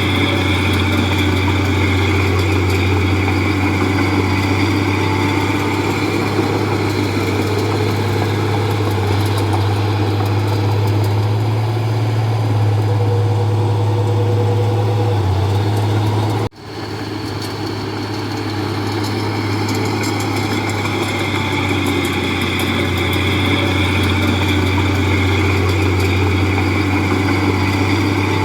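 Diesel engine of a Komatsu D31P bulldozer running steadily, with a strong low hum. About two-thirds of the way through the sound drops out for an instant, then comes back a little quieter and builds up again.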